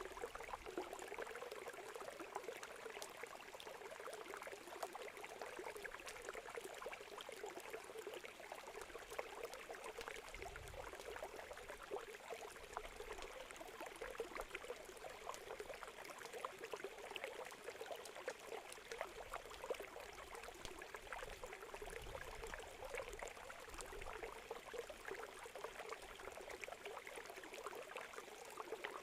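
Wood campfire crackling with many small irregular pops over the steady rush of a flowing river.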